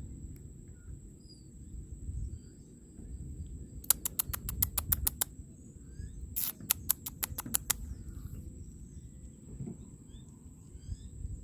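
Scattered faint bird chirps over a low rumble and a steady high-pitched whine. Two quick runs of sharp clicks, about seven a second, come about four seconds in and again about six and a half seconds in.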